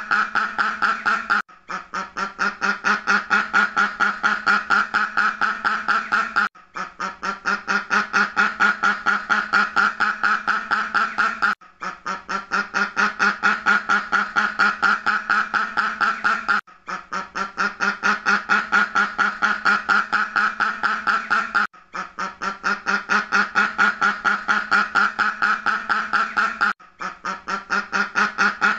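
Duck quacking in a rapid, unbroken series of several quacks a second. The sequence is a loop that breaks off briefly and restarts about every five seconds.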